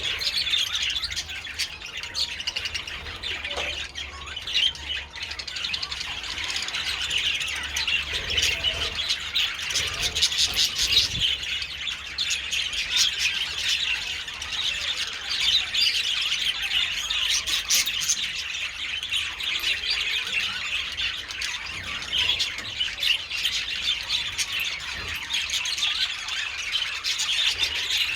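A colony of budgerigars chattering continuously: a dense mix of warbles, chirps and squawks from many birds at once.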